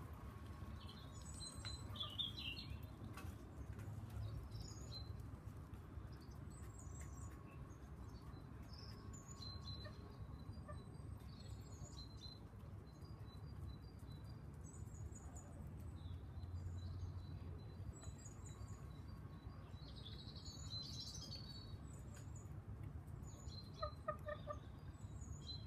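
Birds chirping: short, high chirps come in small clusters every second or two. Underneath is a steady low rumble. A few lower chirps come about a second before the end.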